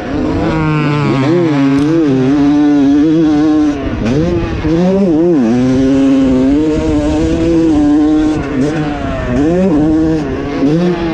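Yamaha YZ250 two-stroke single-cylinder motocross engine running hard under race throttle, its pitch climbing and dropping again and again as the throttle is opened and chopped.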